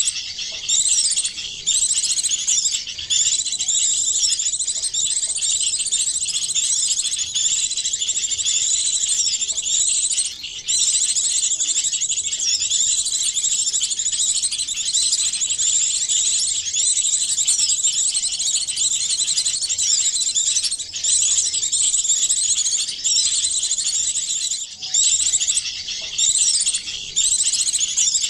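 A layered mix of many small songbirds' calls: dense, overlapping high-pitched chirps and fast trills with no let-up. It is a bird-lure recording, used to draw small birds in for trapping.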